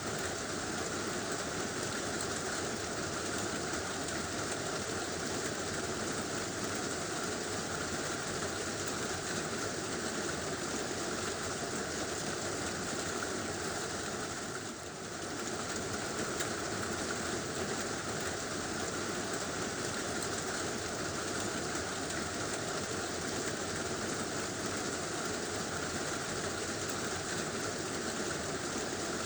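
Heavy rain drumming steadily on a tin roof, dipping briefly about halfway through.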